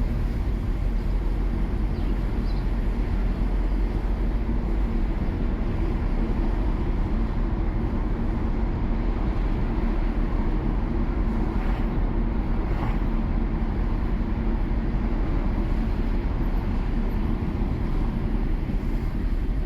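Steady low rumble of a car on the move, with engine and tyre road noise and no sudden events.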